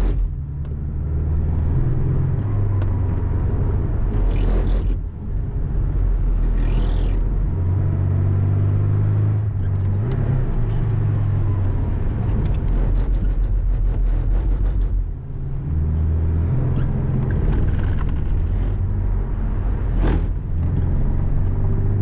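Porsche 718 Cayman's engine heard from inside the cabin, pulling hard with its pitch stepping up and down as it is driven through the manual gearbox. It briefly drops away three times, when the driver lifts off and changes gear. Tyre and water noise from the wet track runs underneath, with a short knock near the end.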